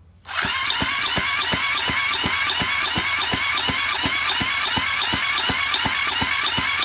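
Honda VTR250 FI V-twin engine turned over by its electric starter, cranking steadily without firing. There are about four even compression beats a second over the starter motor's whine, starting just after the beginning.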